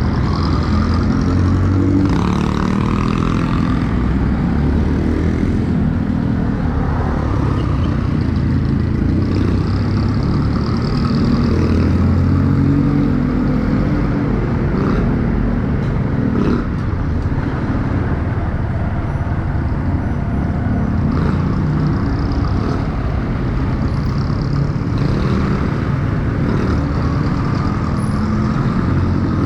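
Motorcycle engine running while riding, its pitch rising and falling every few seconds with the throttle, over steady road noise.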